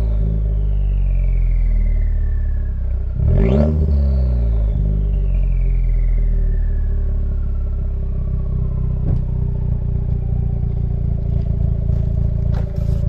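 Chevy Silverado 1500's turbocharged 2.7 L four-cylinder idling deep through a 3-inch Black Widow Neighbor Hater muffler and factory resonator. It is blipped once about three and a half seconds in, then drops back to idle while a whine falls away over several seconds.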